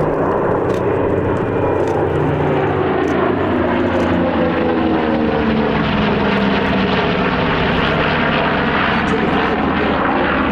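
Propeller-driven aircraft flying past with its piston engine running, the engine note falling in pitch as it goes by.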